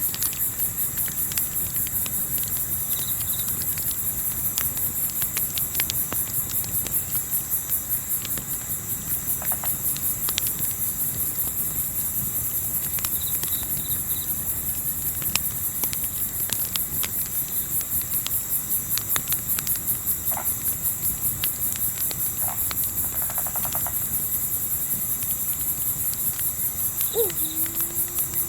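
Crickets and other night insects chirping steadily in a fast, high-pitched pulse, with the scattered pops and crackles of a campfire. Near the end a short low call dips in pitch and holds briefly.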